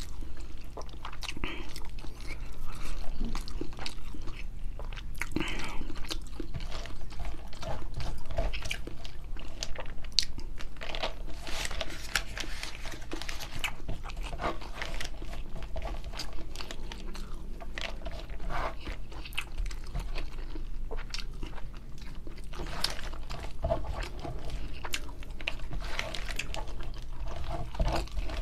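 A person chewing a mouthful of rice and grilled fish, with many small, wet clicks and smacks, while fingers gather rice on a banana leaf.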